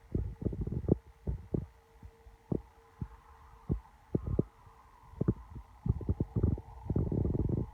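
Irregular low thumps and rumbling of storm wind buffeting a phone's microphone, heaviest over the last couple of seconds. A faint steady hum runs underneath.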